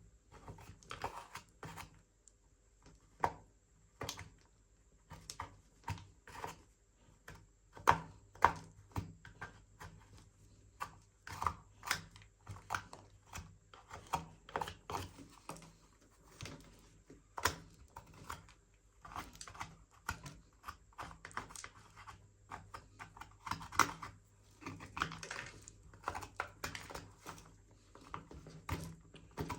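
Plastic clicks and taps from a toy R/C car remote controller being handled and cleaned: irregular sharp clicks a few times a second, mixed with short scratchy rubbing.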